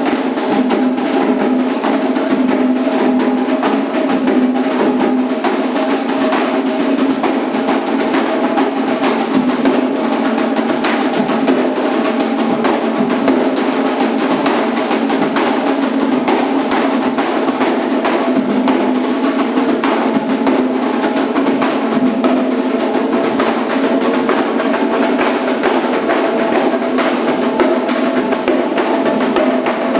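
Candomblé atabaque hand drums playing a dense, fast, steady rhythm.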